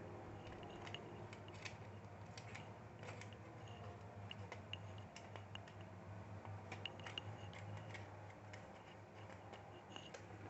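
Faint scattered clicks and taps of small laptop parts being unplugged and handled during disassembly, over a steady low hum.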